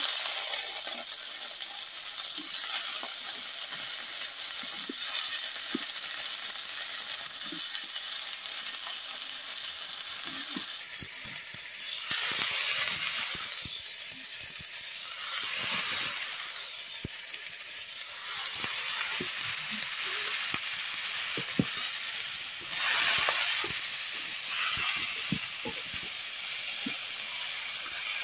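Vegetables frying in oil in an iron kadai, with a steady sizzle and a metal spatula stirring now and then. The sizzle swells several times, about twelve and sixteen seconds in and again past twenty-two seconds.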